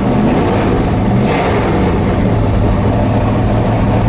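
1972 Chevy Monte Carlo's V8 engine running steadily just after a cold start from months of sitting, with a brief rise in engine speed near the start and a short surge about a second and a half in.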